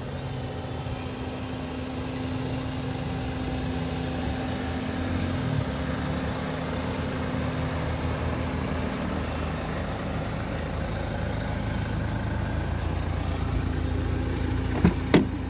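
Toyota Etios car engine idling steadily. Two short, sharp knocks near the end.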